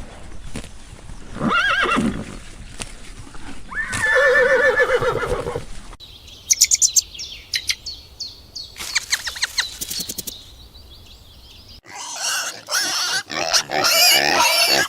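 A horse whinnies twice, each a loud wavering call. Then small birds chirp in quick high series. From about twelve seconds a pig oinks and squeals loudly.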